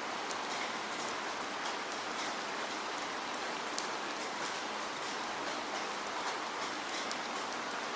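Steady rain falling, an even hiss with scattered sharp drops striking a surface.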